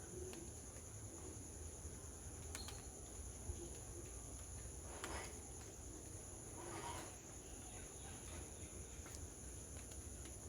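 Insects droning steadily at a high pitch, with two even tones held throughout, and a few faint clicks and two brief rustles about halfway through.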